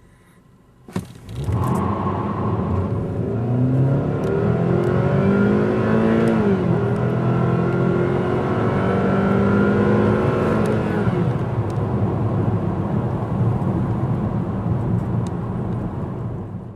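2013 Chevrolet Malibu Eco's direct-injected 2.4-litre four-cylinder engine restarting from auto-stop with a sharp jolt about a second in, then pulling hard at full throttle with rising revs. Its six-speed automatic upshifts about six and a half seconds in, the revs climb again, and from about eleven seconds the engine runs at a steadier pitch once the throttle is lifted, until the sound cuts off.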